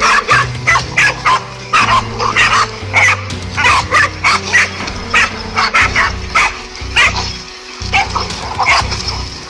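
A dog barking over and over, about three barks a second, with a short lull past the middle, over background music.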